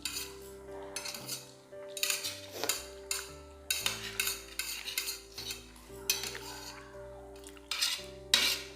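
Chopsticks clicking and scraping against plates in quick clusters as food is picked up, with the loudest clatter near the end, over soft background music.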